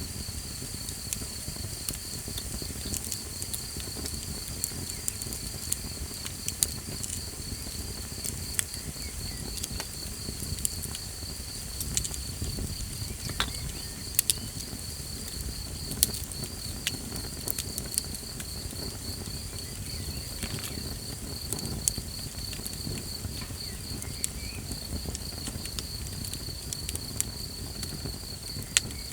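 Small campfire burning, with scattered sharp crackles and pops over a low rumble of the flames, while an insect chirps in a steady, even pulse.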